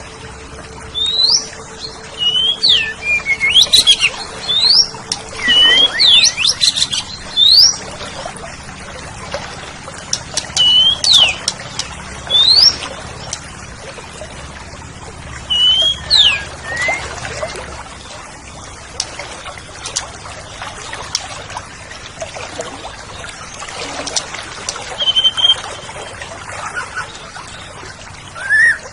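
Oriental magpie-robin (kacer) singing: loud, clear rising and falling whistled notes in quick bursts of phrases, mixed with sharp clicking notes, with short pauses between bursts. A steady low tone sounds under the song for the first six seconds or so.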